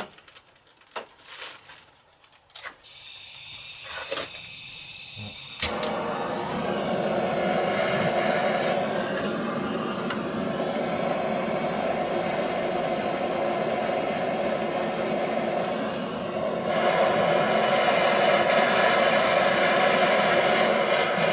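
Handheld gas blowtorch: a few clicks of handling, then gas hissing from about three seconds in, a sharp click near six seconds as it lights, and the flame burning steadily after that, turned up louder near the end. The flame is heating a copper oil feed pipe joint to melt solder into it.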